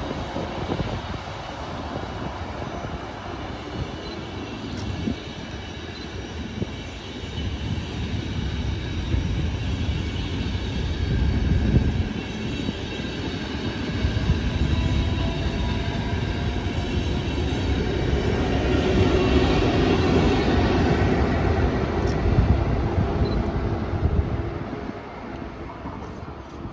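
Frecciabianca passenger train hauled by E402B electric locomotives moving away along the station tracks: wheels rumbling and clacking on the rails with a light wheel squeal. It grows loudest about two-thirds through, then fades.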